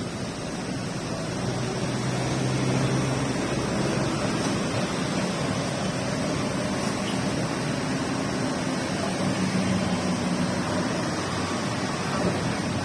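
Steady rain falling, an even hiss, with a faint low hum coming and going underneath.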